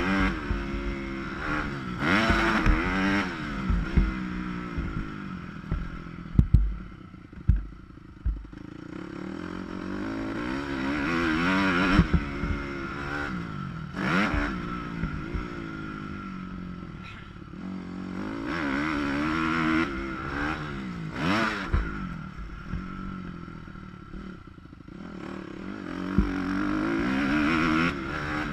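Dirt bike engine revving hard and falling away again and again as it accelerates and shifts around a motocross track, heard muffled through a GoPro's waterproof housing. Sharp knocks and clatter from the bike over rough ground come through at times.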